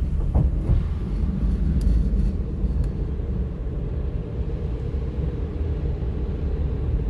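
Steady low rumble of car-wash machinery and the idling vehicle, heard muffled inside the van's cabin.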